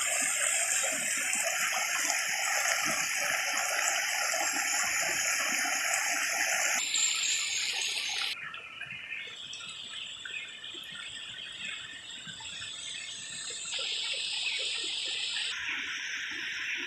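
Water of a mountain river rushing and splashing over rocks, a steady dense hiss. The sound shifts abruptly several times and is quieter from about eight seconds in.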